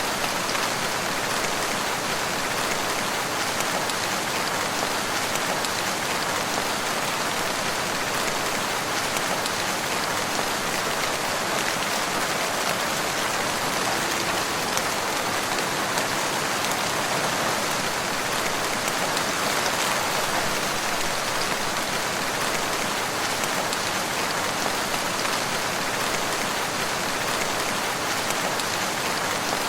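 Steady rain falling, a dense even patter of drops without a break.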